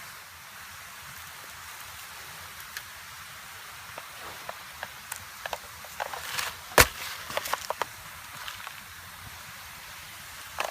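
Dry wood crackling and snapping over a steady hiss, with scattered sharp cracks that crowd together about six to eight seconds in, the loudest near seven seconds.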